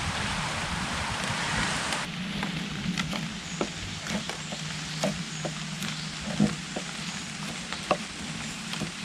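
Steady rain, heavy for about two seconds and then suddenly lighter, with scattered sharp drops ticking on nearby surfaces.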